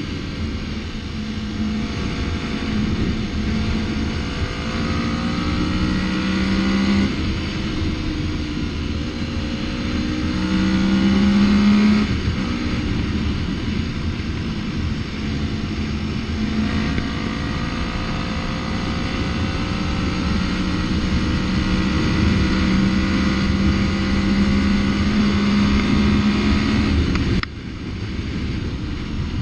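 Yamaha MT-03 motorcycle engine under way, its revs climbing and then dropping at gear changes, twice in the first half. The engine note falls away suddenly near the end.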